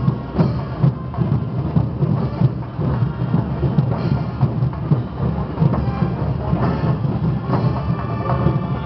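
Drum-led music of a festival dance troupe's band, with heavy bass drum strokes and rapid percussion beating without a break.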